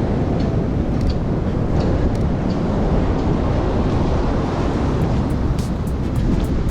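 Strong sea wind buffeting the microphone as a steady low rumble, with the surf beneath it.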